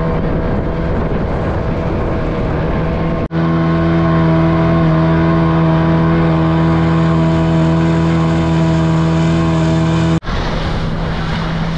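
A tour boat's motor running steadily at cruising speed, with rushing water under it. The sound breaks off sharply for an instant twice, about three and ten seconds in.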